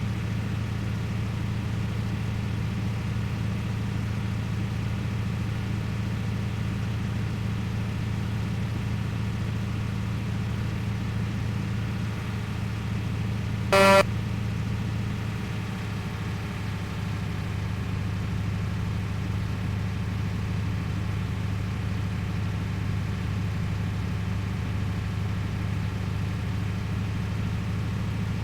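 Truck engine running steadily, with one short horn honk about halfway through.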